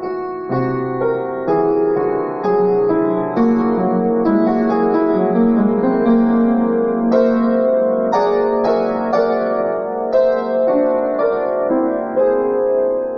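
Solo piano improvisation in an impressionist style, built on whole-tone harmonies: new notes and chords are struck about every half second and left to ring over one another.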